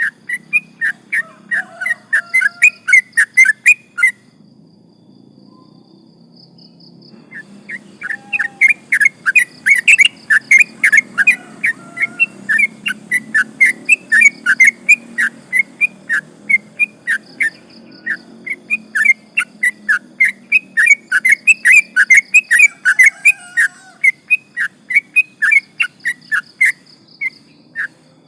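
Yellow-vented bulbul (trucukan) singing in long, fast runs of short whistled notes, several a second. The song breaks off about four seconds in and resumes some three seconds later.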